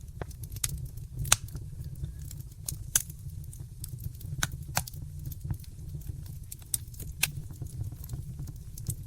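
Wood fire in a fireplace crackling: irregular sharp pops and snaps over a steady low rumble of the burning fire, the loudest pops about one and three seconds in.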